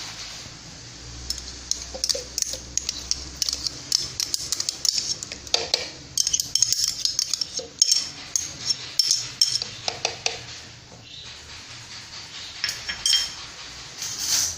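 A spoon scraping and clinking against a yogurt pot and mixing bowl as yogurt is spooned in: a quick run of clicks and scrapes through most of the first ten seconds, a quieter stretch, then a shorter flurry near the end.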